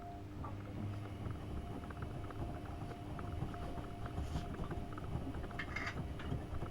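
AEG Öko-Lavamat 72520 washing machine running a wash: the motor hums steadily while water and laundry slosh in the turning drum. A short hiss comes in just before the end.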